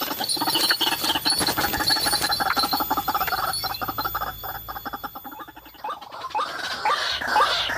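White-breasted waterhen calling: a harsh, fast rattling chatter, then from about six seconds a run of short rising calls, a few per second.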